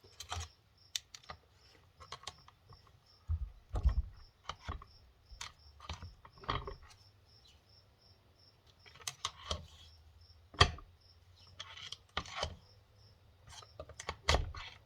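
Irregular metallic clicks, taps and knocks of hand tools and steel parts as a gear is worked out of a Mahindra 5010 tractor's front final drive housing, the loudest knock about ten and a half seconds in.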